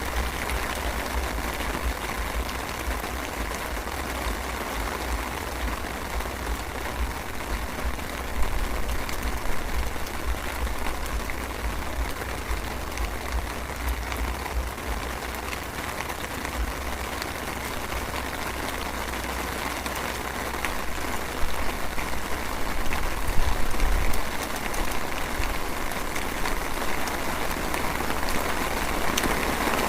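Light drizzle falling steadily, an even hiss of rain, with a low rumble underneath that swells briefly about eight seconds in and again for a few seconds after the twenty-second mark.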